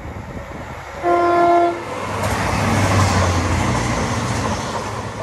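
Train horn sounding one short single-tone blast, followed by a train passing at speed: a low rumble and rushing wheel noise that swell about three seconds in and then fade.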